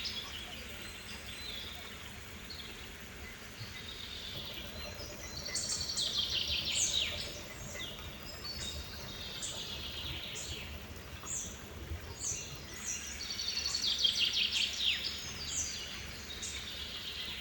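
Songbirds singing: a loud, fast trilled phrase that falls in pitch comes twice, about eight seconds apart, with shorter chirps from other birds in between.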